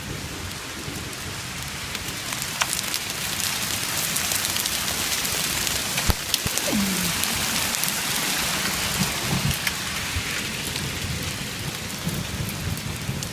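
Hail of about half an inch, mixed with rain, pelting down on the ground and nearby surfaces: a dense, steady patter of many small ticks, with a couple of sharper cracks from bigger stones striking.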